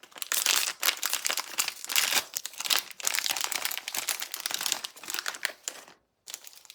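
Blind-box packaging being crumpled and crinkled by hand, a dense run of crackles that stops suddenly about six seconds in.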